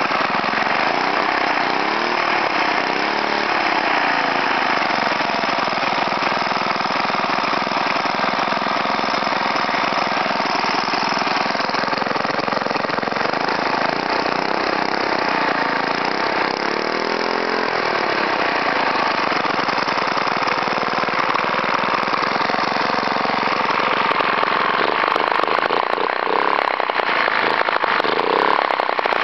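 Suffolk Punch mower's small single-cylinder engine running steadily after a full rebuild, its speed wavering up and down a couple of times.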